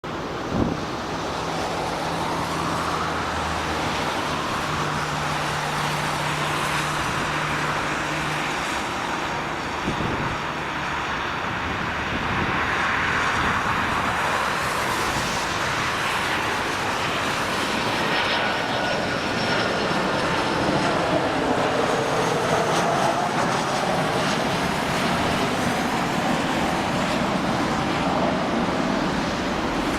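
Boeing 737-500 airliner's CFM56-3 turbofan engines at approach power as it comes in to land: a steady jet rumble that swells slightly midway, with high engine whine tones growing clearer in the second half. A short knock is heard near the start.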